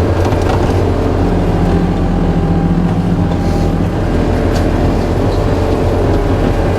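Skid steer's diesel engine running hard while driving a forestry mulcher head: a steady, loud machine drone that swells a little in the middle, with a few faint ticks.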